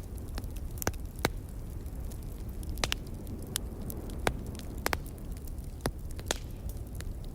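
Wood fire crackling in a fireplace: irregular sharp pops and snaps scattered over a low steady rumble.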